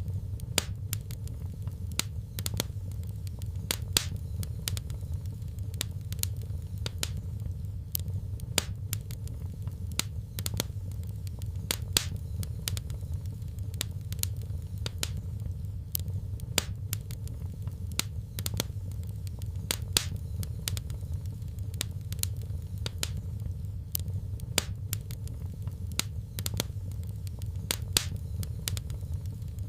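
Wood fire crackling: sharp, irregular pops and snaps, several a second, over a steady low rumble.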